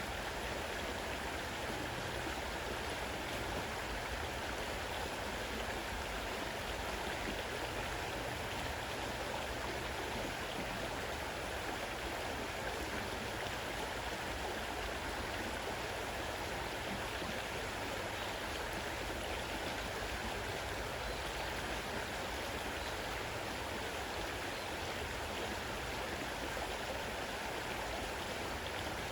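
Fast-running river water rushing steadily, an even wash of sound with no breaks.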